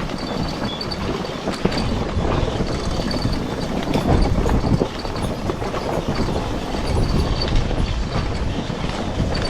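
Off-road vehicle riding over a rough trail, heard from a mounted action camera: a steady, dense rumble and rattle.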